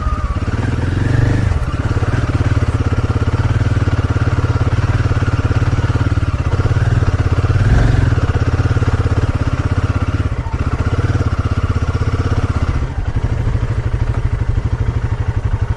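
Motorcycle engine running steadily, its exhaust pulsing evenly.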